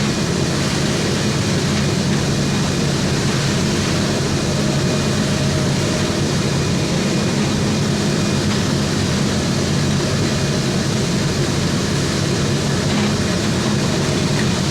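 Electric arc welding: the arc's steady crackling hiss, with a low hum underneath.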